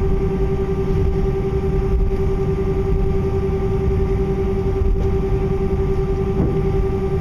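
Cabin noise inside an Airbus A319 taxiing after landing: a steady low rumble with a constant whine.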